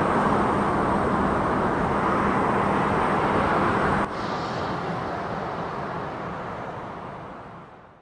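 Steady rushing noise of a C-130 Hercules's turboprop engines on the runway, with a faint steady hum underneath. It drops suddenly about four seconds in, then fades out.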